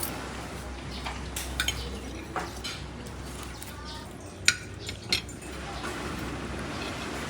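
A handful of short, sharp clinks and taps, scattered irregularly over steady background noise with a low hum.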